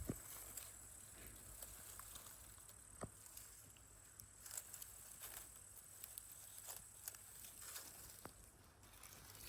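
Near silence with faint rustling and scattered soft clicks and taps, two slightly stronger taps at the start and about three seconds in.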